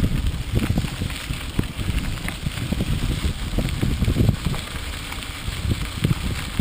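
Riding noise from a mountain bike on a rough trail: wind buffeting the microphone in irregular low surges, with a steady crackle of short knocks and rattles from the bike over the ground.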